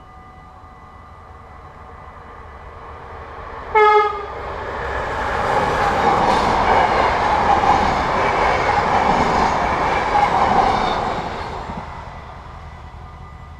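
Level-crossing warning bells ringing. About four seconds in, an approaching MAT'64 electric multiple unit sounds a short horn blast, then runs over the crossing, its wheel and rail noise swelling loud and fading away over about seven seconds.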